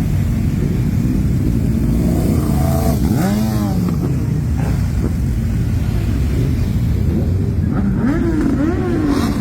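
A procession of motorcycles riding past, their engines running with a steady drone. Engine pitch rises and falls as riders rev, about three seconds in and again near the end.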